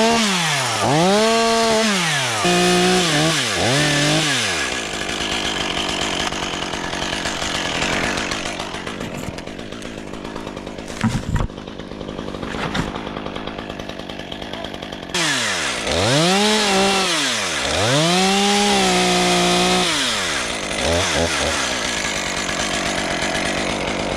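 Petrol chainsaw revved in repeated short bursts, its pitch climbing, holding and dropping back each time, with a steadier stretch of sawing noise in the middle that jumps abruptly louder about fifteen seconds in.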